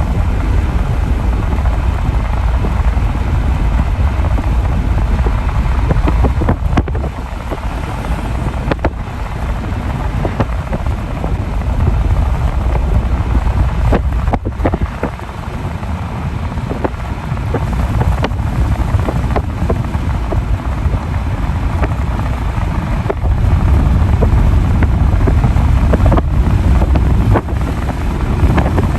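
Wind buffeting the microphone: a loud, steady low rumble with scattered clicks, growing louder for a few seconds near the end.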